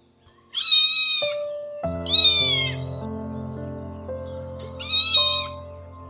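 A cat meowing three times, each meow short and high-pitched, over background music with sustained notes.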